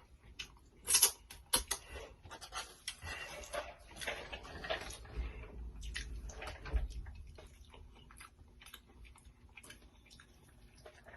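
Close-up chewing of Takis-crusted fried chicken: irregular sharp crunches with wet mouth sounds and breathing, loudest about a second in.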